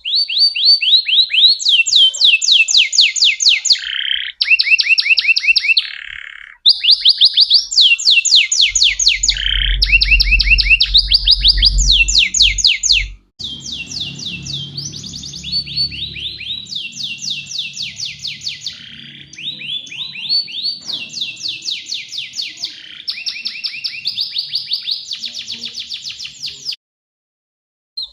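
Domestic canary in full song: phrase after phrase of rapid, high trills, each a fast run of repeated notes that switches pitch every second or two. The song breaks off abruptly about thirteen seconds in and carries on more quietly, with a low hum beneath it for a few seconds in the middle.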